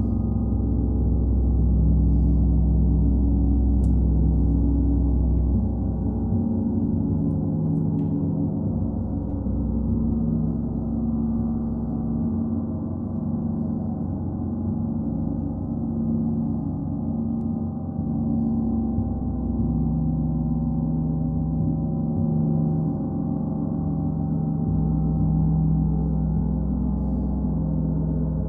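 A gong played continuously in a sound bath: a sustained wash of many overlapping low tones that swells and eases slowly, without distinct separate strikes.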